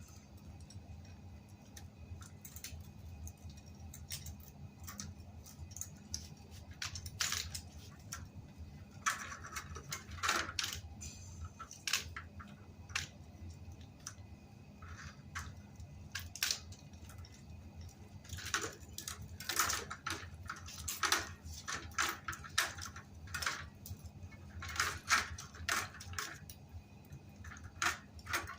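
Irregular light metallic clinks and knocks of tools and bicycle parts being handled during tyre replacement, in scattered clusters over a steady low hum.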